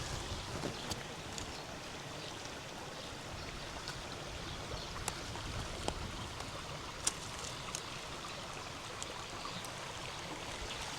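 River water flowing and babbling steadily, with a few short, sharp clicks scattered through it.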